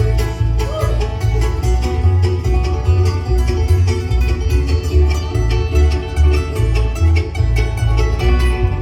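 String band playing an instrumental passage in bluegrass style, with plucked strings over a steady, pulsing bass beat.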